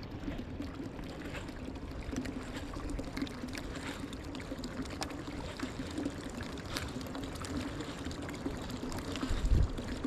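Water pouring steadily out of a flooded fishing boat as the bilge pump empties the hull, over a steady pump hum. A low rumble of wind on the microphone comes in near the end.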